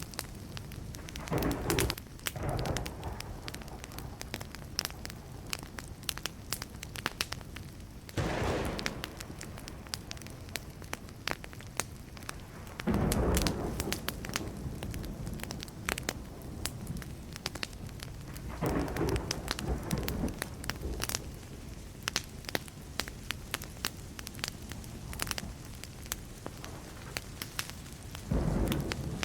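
Wood campfire burning, with a steady scatter of sharp crackles and pops. About every five seconds a louder swell of noise lasts about a second.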